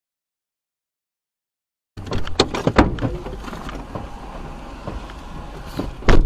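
Silence for about two seconds, then a car's road noise heard from inside the cabin: a steady low rumble with scattered knocks and clicks, and one loud thump near the end.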